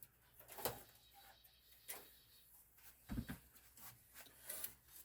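A few faint clicks and knocks from computer parts and case pieces being handled, with a duller thump about three seconds in.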